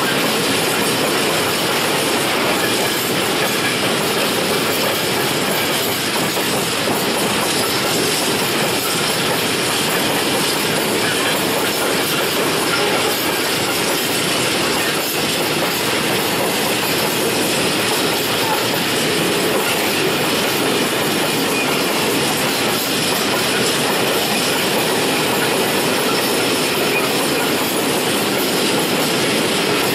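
Freight train of open-top gondola wagons rolling past close by: a loud, steady noise of steel wheels on the rails.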